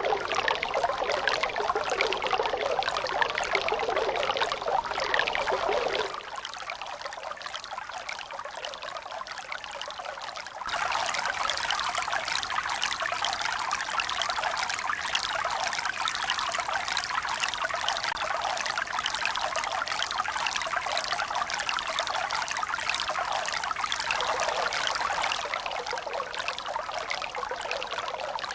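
Running water trickling and pouring steadily. The sound drops abruptly about six seconds in, comes back louder about ten seconds in, and eases slightly near the end.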